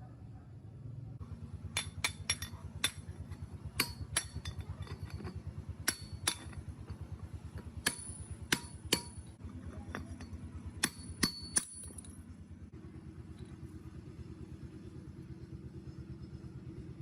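Sharp metallic clinks of steel parts and tools being handled, about a dozen scattered over the first two-thirds, over a steady low machine hum.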